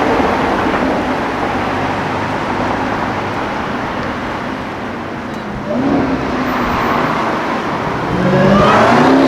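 Car engine accelerating over a bed of traffic noise: about six seconds in its note starts to climb, and near the end it revs up hard with a sharply rising pitch.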